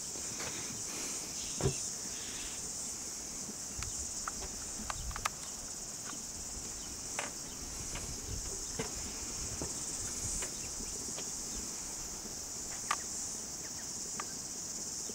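Steady high-pitched insect chorus, with scattered sharp pops and a low rumble from the bubbling mud volcano.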